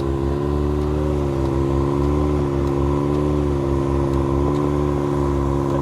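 Vehicle engine running steadily under light throttle, its pitch rising and falling gently, during a snow recovery.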